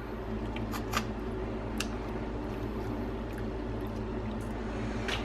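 Boiled crab being eaten by hand: a few small sharp clicks of shell and wet squishing as the meat is picked out, over a steady low hum.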